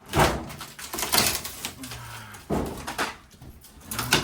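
Irregular knocks, clanks and scrapes of metal venting and ductwork being cut and pulled apart during demolition, with about half a dozen sharp hits.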